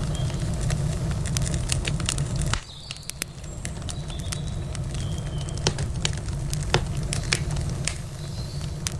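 Wood campfire crackling, with irregular sharp pops and snaps. Underneath is a low rumble that drops away suddenly about two and a half seconds in.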